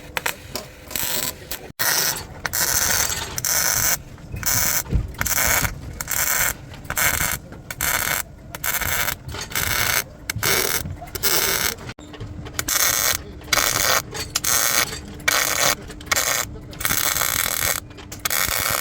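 Short rasping strokes of a hand tool, repeated about two a second with a few brief pauses.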